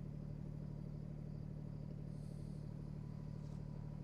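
Kubota BX25's three-cylinder diesel engine running at a steady speed.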